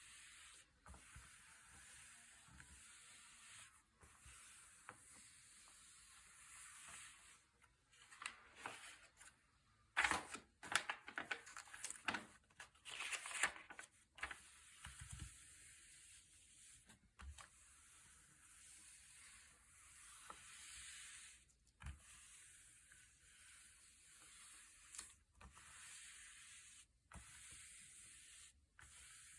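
Thick, glossy pages being turned and handled, with a louder run of paper rustling about ten seconds in that lasts a few seconds, and soft scattered taps over a steady faint hiss.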